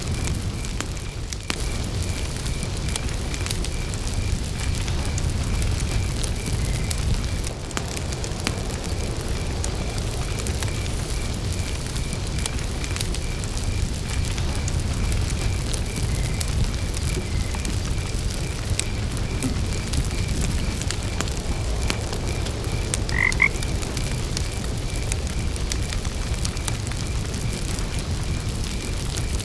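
Campfire burning with a steady low noise and scattered crackles, under a cricket chirping in an even, fast pulse throughout. A frog croaks once, briefly, about three quarters of the way through.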